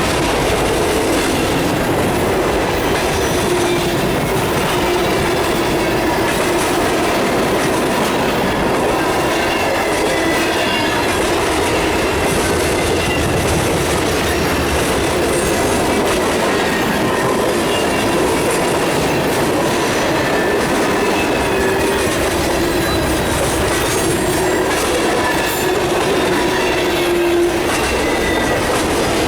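Freight train cars rolling past at steady speed: a continuous rumble and clatter of steel wheels on rail, with thin squealing tones from the wheels coming and going.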